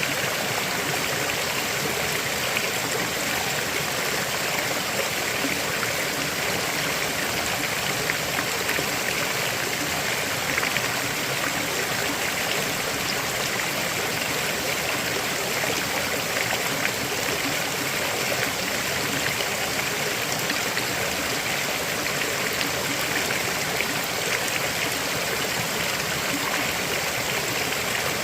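River water flowing and rushing over stones, a steady, even sound with no change.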